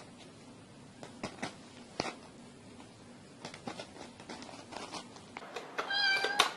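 Scattered light clicks and taps, then a cat meows once near the end, a single drawn-out call that is the loudest sound here.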